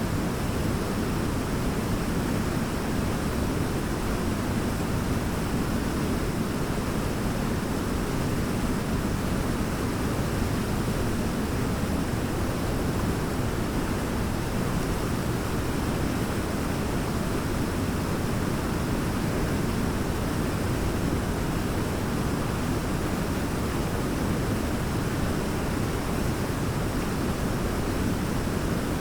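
Large waterfall roaring steadily, a constant rush of falling water that is heaviest in the low range.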